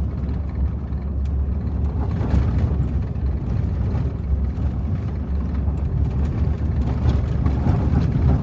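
A car driving steadily through sand on a dirt road: a continuous low rumble of engine and tyres, with a few faint rattles.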